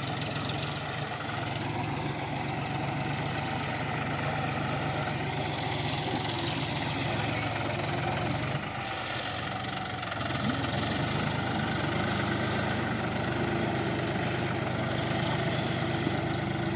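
John Deere 5045D tractor's three-cylinder diesel engine idling steadily. It dips briefly about nine seconds in, then runs a little louder.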